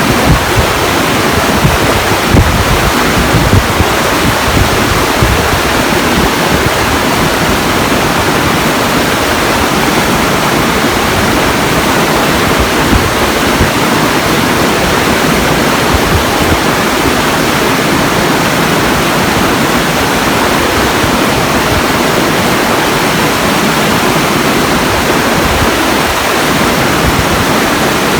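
Loud, steady rushing water, an unbroken roar of white noise, with wind buffeting the microphone in the first few seconds.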